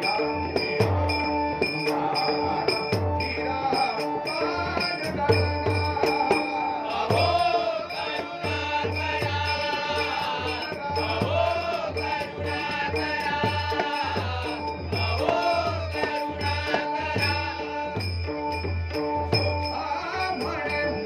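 Devotional bhajan music: a voice sings over a steady held drone, with regular drum strokes and small hand cymbals ticking along. The sung melody comes in strongly about seven seconds in.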